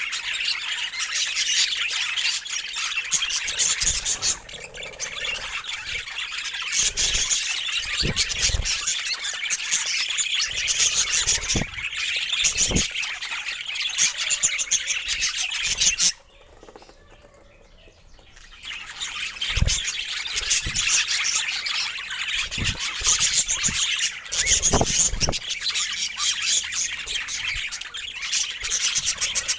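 Several budgerigars chattering and chirping in a dense, continuous warble, with a few short low thuds. It breaks off for about two seconds midway, then resumes.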